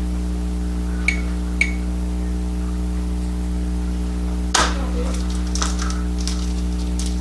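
Steady electrical hum with kitchen handling noises: two light clinks about a second in, then a knock midway followed by rustling, as a package of ground venison is worked open.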